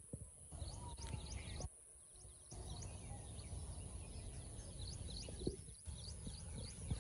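Birds calling: many short, high, quick downward chirps repeating over a steady low rumble.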